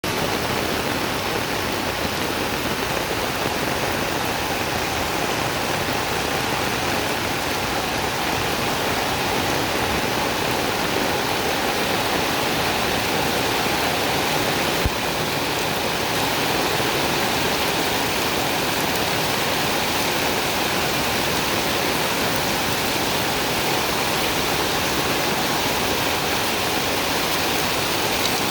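Heavy rain falling in a steady, unbroken rush, with one brief click about halfway through.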